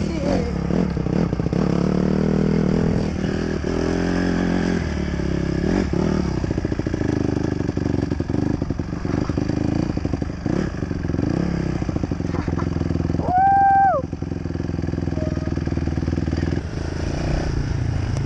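Dirt bike engine running, its pitch rising and falling as the throttle is worked. About thirteen seconds in, a brief loud high-pitched tone sounds over it for under a second.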